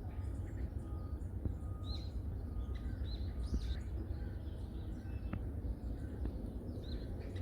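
Small forest birds calling with short high chirps, repeated every second or so, over a steady low rumble.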